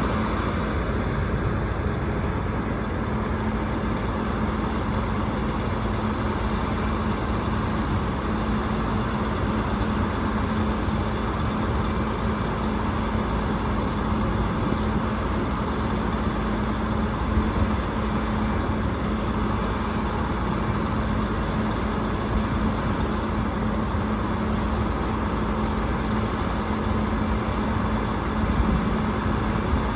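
Rooftop HVAC unit running, a steady mechanical drone with a constant low hum.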